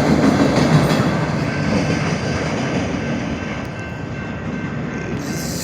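A train's cars rolling past on the rails in a steady rumble and clatter that slowly fades.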